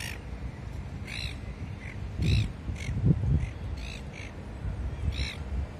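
Birds squabbling: a run of about ten short, harsh calls at irregular intervals. A low rumble on the microphone comes about two and three seconds in.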